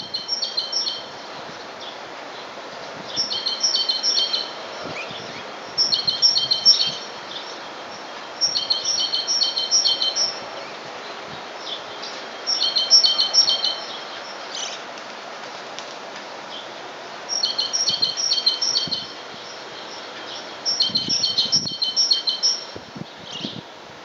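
A songbird chirping: seven short phrases of rapid, high, repeated notes, each a second or two long, coming every few seconds, over steady background noise.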